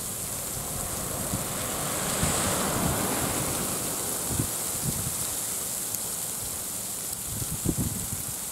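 Steady rain-like hiss with wind buffeting the microphone in low thumps; a broad swell of noise rises and fades about two to three seconds in.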